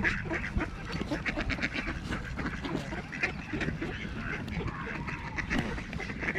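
A crowd of waterfowl, geese and ducks among them, calling with many short, overlapping calls as they jostle for food.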